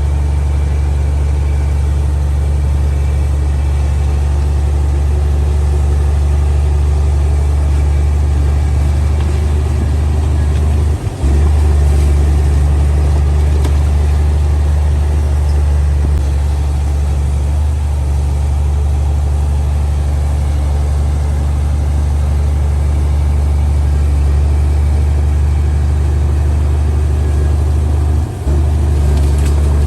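Komatsu D58P bulldozer's diesel engine running steadily, a loud low drone. It drops out very briefly twice, about 11 seconds in and near the end.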